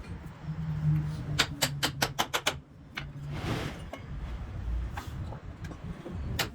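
A quick run of about seven sharp taps, a hand tool striking wood, a little over a second in, then a short rasping scrape about halfway through. More sharp taps come near the end.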